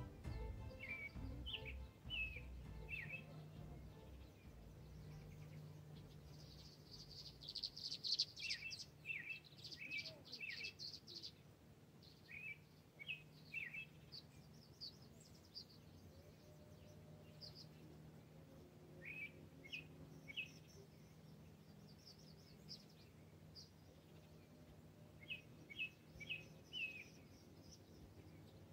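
Wild birds calling faintly: short chirps in small groups, with a busier run of chirping about seven to eleven seconds in.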